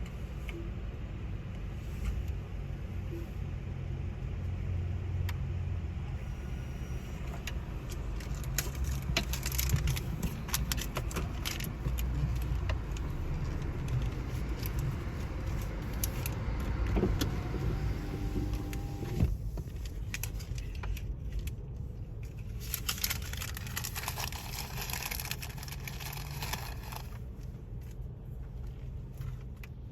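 Tunnel car wash heard from inside a car: a steady low rumble, with two spells of hissing, crackling spray and scrubbing against the car's body, the first about a third of the way in and the second near three-quarters through. A brief whining tone sounds a little past the middle.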